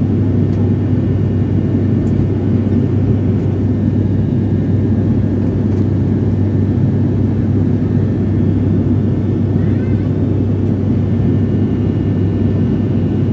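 Steady drone inside an airliner cabin in flight: engine and airflow noise with a strong, even low hum.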